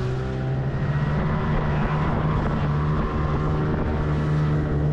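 Outboard motor of a small tender running steadily under way.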